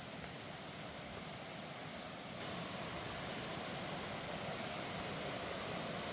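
Steady rush of flowing stream water, growing a little louder about two and a half seconds in.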